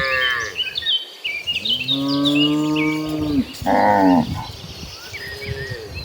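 Cattle mooing: a call trailing off at the start, then one long low moo lasting about two seconds, a short higher call near four seconds, and a fainter falling moo after it. Small birds chirp in the background.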